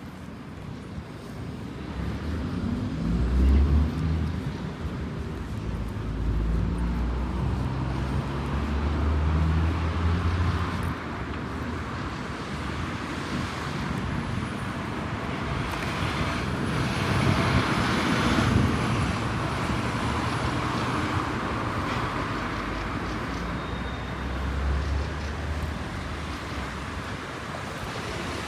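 City street traffic: motor vehicles running and passing, with a low engine rumble in the first seconds and one passing close and loud about two-thirds of the way in. A thin high whine sounds across the middle.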